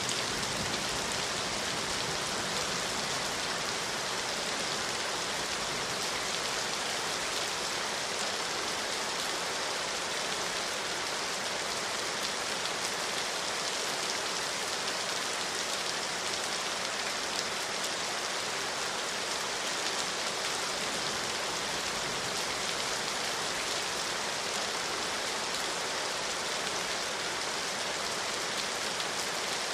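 Steady rain falling, an even hiss of many drops that holds constant throughout, with no thunder.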